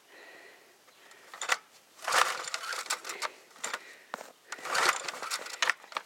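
Two pulls on a small mower engine's recoil starter, about two and a half seconds apart. Each pull is a ragged rasp of a second or so as the engine turns over without firing. It doesn't even sound like it's trying: a cold engine that has sat since the fall and is not catching.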